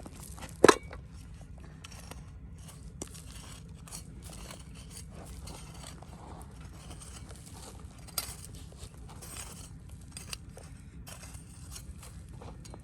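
Scattered scrapes, crunches and clicks, with one loud sharp knock about a second in, over a steady low rumble.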